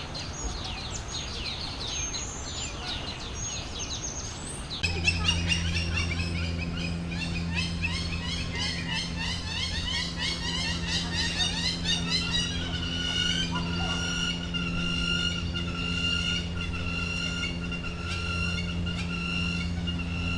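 Many birds chirping and calling together, a dense chatter of quick high notes. About five seconds in, the sound changes abruptly: a steady low hum starts underneath the busier chirping. From midway, one bird repeats a short held whistle over and over.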